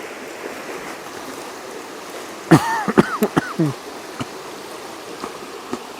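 A man coughing and clearing his throat in a short burst about two and a half seconds in, with a crumb of biscuit from his s'more caught in his throat, over a steady rushing background noise.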